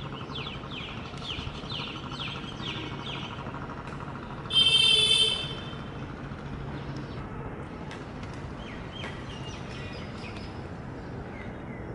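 Birds chirping over the steady, distant rumble of an approaching WAP-4 electric locomotive and its train. About four and a half seconds in, a loud high-pitched tone sounds for about a second.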